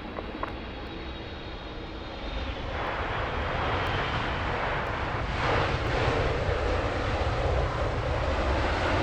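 Jet airliner engine noise, a steady roar that grows louder about two and a half seconds in and again about five seconds in as the aircraft comes closer.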